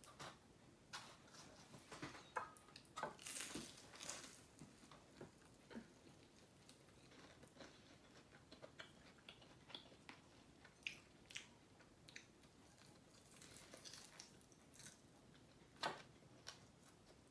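Crisp deep-fried whole chicken being bitten and chewed close up: soft, irregular crunches of the crackly skin, loudest in a cluster about three to four seconds in and in one sharp crunch near the end.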